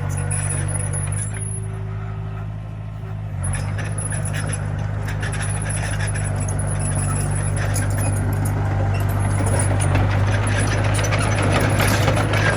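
Komatsu mini bulldozer's diesel engine running steadily under load, with metallic clinking from the tracks and blade. The engine eases off briefly a second or two in, then builds again.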